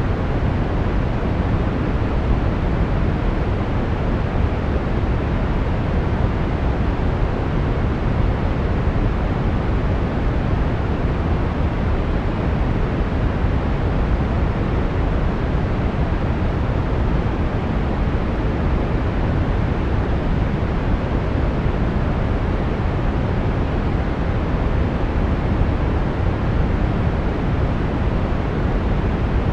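Steady brown noise: an even, unchanging rumble-like hiss, strongest in the low end and falling away toward the highs.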